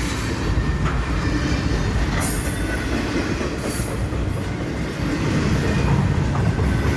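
Freight train rolling past: a steady rumble of wheels on rail, with brief high-pitched squeals from the wheels about two seconds in and again near four seconds.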